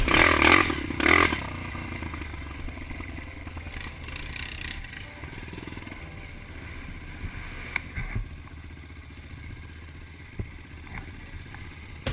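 Trail motorcycle engine, loud for about the first second, then dropping to a quieter, steady low running.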